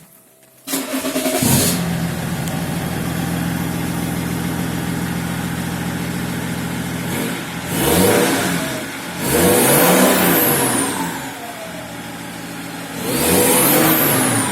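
BMW E39 530d's straight-six turbodiesel starting about a second in and idling steadily, then revved three times, the middle rev held longest. It breathes through a straight-through 2.75-inch exhaust from the turbo back, with the stock rear silencer cut open and gutted.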